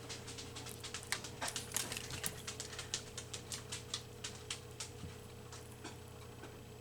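Scissors snipping through a magazine page in a quick run of short clicks, about three or four a second, thinning out after about five seconds.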